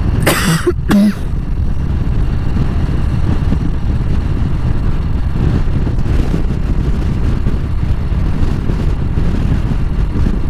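Harley-Davidson motorcycle under way: the engine running with heavy wind rush over the microphone, plus one short sharp burst of noise about half a second in.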